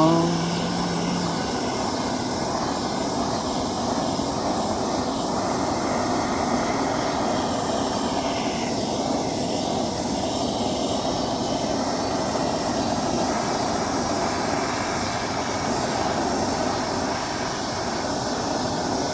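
Blowtorch flame hissing steadily as it is passed over a wooden board, scorching the wood's surface dark.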